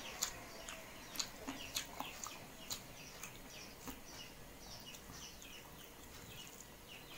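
Faint chewing with sharp mouth clicks about once a second, over many short, repeated bird chirps.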